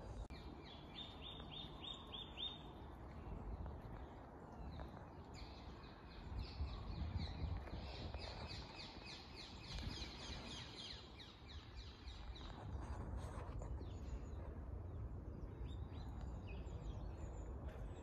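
Songbirds singing: a short run of quick repeated high notes in the first few seconds, then a longer run of rapid repeated high notes from about five to eleven seconds in. A low rumble lies under them throughout.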